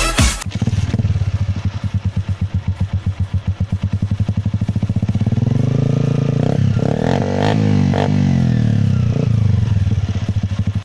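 Honda CG 125 Cargo's single-cylinder four-stroke engine idling through an aftermarket Akrapovic exhaust with an even, pulsing beat. About halfway through it is revved up a few times, then settles back to idle.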